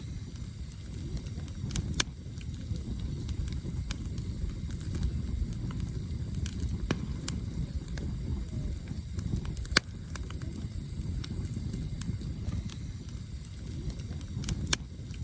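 Wood campfire burning with a steady low rumble of flames and scattered sharp crackles and pops of the burning logs.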